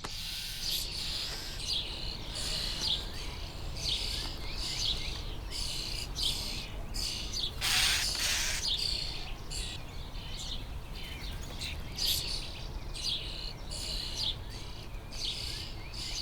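Young starling chicks begging for food in the nest: a chorus of short, high, harsh calls repeated again and again, with one louder, noisier call about eight seconds in.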